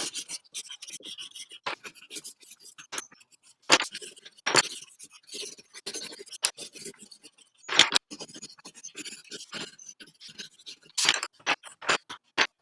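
Colouring on paper: a quick, irregular run of short scratchy strokes, with a few sharper taps.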